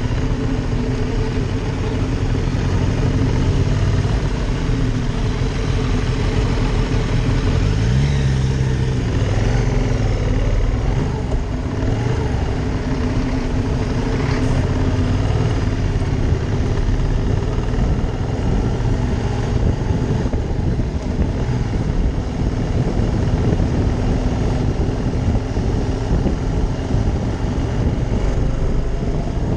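Ducati Monster 620's air-cooled V-twin engine running steadily under way, rising in pitch as it revs up about eight seconds in.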